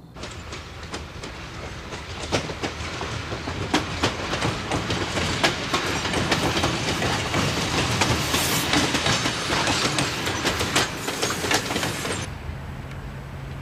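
Train running past on rails, its wheels clacking over the rail joints in a dense, uneven clatter that grows louder and then cuts off suddenly near the end.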